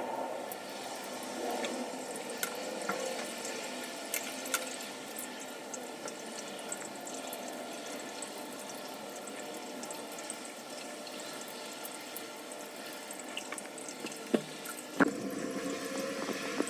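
Water running steadily from a shower, with scattered faint clicks and a sharper knock near the end.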